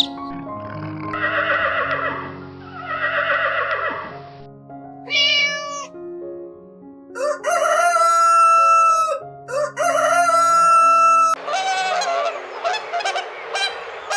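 Chickens: a rooster crowing twice, each crow about two seconds long, with shorter calls before and hens clucking near the end, over background music.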